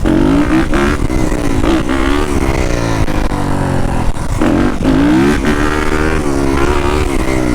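Yamaha YZ250F dirt bike's single-cylinder four-stroke engine revving under way, its pitch climbing and dropping several times as the throttle is opened and eased off.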